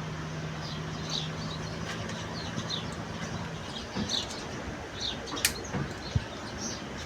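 Small birds chirping repeatedly, with a steady low hum that stops about three and a half seconds in and a couple of sharp clicks near the end.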